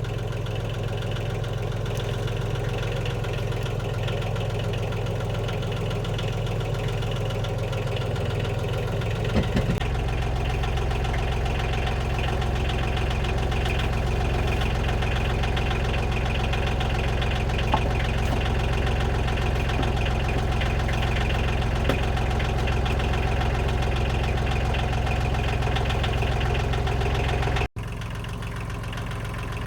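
The car's engine running steadily at idle. About ten seconds in, the low hum grows fuller. Near the end the sound cuts off abruptly and carries on a little quieter.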